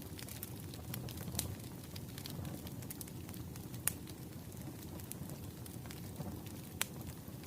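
Wood fire crackling: a steady low rumble of burning logs with irregular sharp pops and snaps, the loudest about four seconds in and again near the end.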